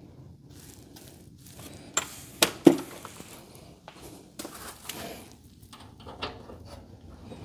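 Scattered knocks and clicks of tools and metal hinge hardware being handled during garage door hinge work. Three sharp knocks come close together about two seconds in, the last the loudest, followed by a few lighter ones.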